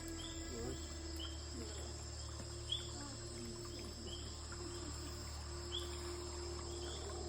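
Night-time tropical forest insect chorus: steady high-pitched trilling with a short chirp that repeats about once a second, over a low steady hum. A single sharp click comes near the middle.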